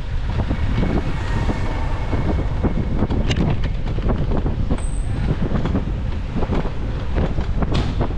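Wind buffeting the microphone of a moving bicycle, a steady low rumble with frequent small clicks and knocks.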